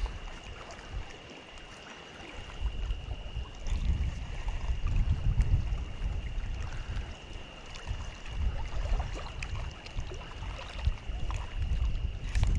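Wind buffeting the microphone in gusts, a low rumble that rises and falls, with a faint steady high whine underneath.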